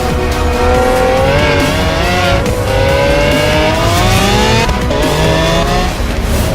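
High-performance car driven hard, its engine note climbing steadily for a couple of seconds midway, with tyre squeal, over background music.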